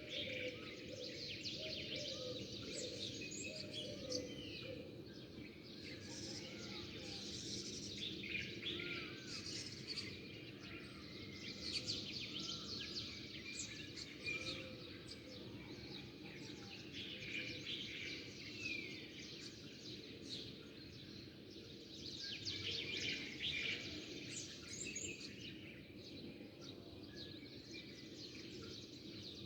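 Many small birds chirping and twittering together in a continuous dawn chorus of short overlapping calls, over a steady low background noise.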